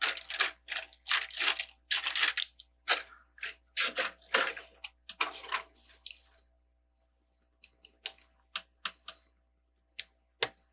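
Plastic Lego bricks rattling as a hand rummages through a tub of sorted pieces, with a dense run of rapid clicks for about six seconds, then a few separate sharp clicks of single bricks being handled.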